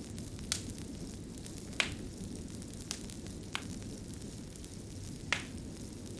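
Fire crackling: a steady low rush of flames with five sharp, separate pops, the loudest near the middle and near the end.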